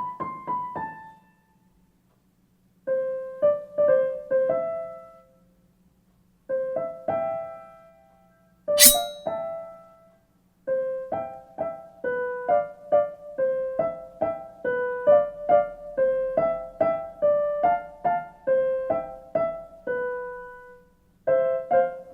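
Background piano music: short phrases of single notes, with brief silent pauses between them. A single sharp click about nine seconds in is the loudest sound.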